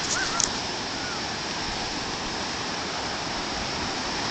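Steady rushing noise of ocean surf breaking on the shore, with a couple of faint short chirps in the first half second.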